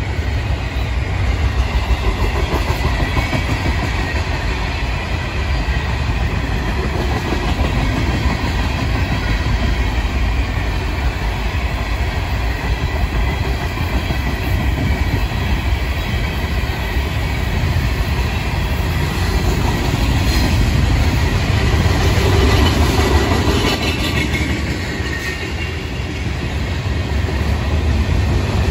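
Florida East Coast Railway freight train's cars rolling past: steady rumble of steel wheels on the rails.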